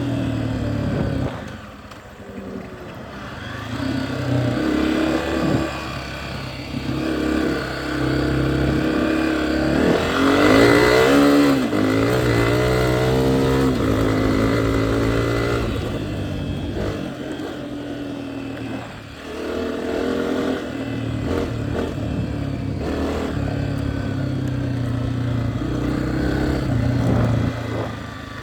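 Dirt bike engine under way, the throttle opening and closing as it rides. It eases off briefly near the start, revs up hard about ten seconds in, and drops off again a little before the twenty-second mark.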